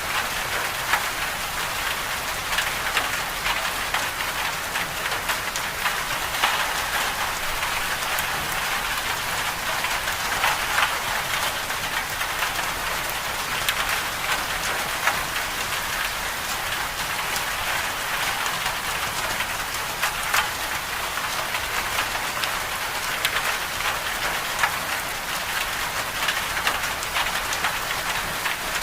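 Moderate rain falling steadily on a surface, a continuous hiss dotted with many sharp individual drop hits. No thunder stands out.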